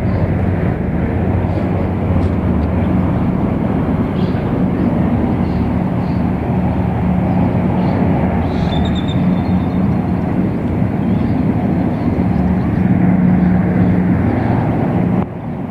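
Light single-turbine military helicopter passing in flight: a steady, loud rotor-and-turbine drone with a low hum under it. The sound drops suddenly near the end.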